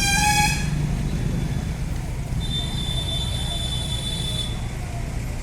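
Steady low engine rumble with a short horn toot at the start, then a high steady tone lasting about two seconds in the middle.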